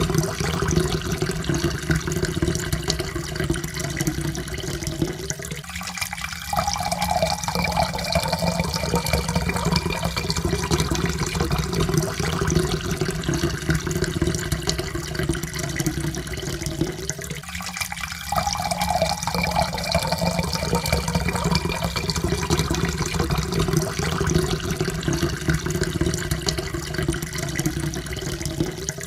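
Water pouring steadily into a cup, the pitch rising as the cup fills; the pour breaks off and starts again about every twelve seconds.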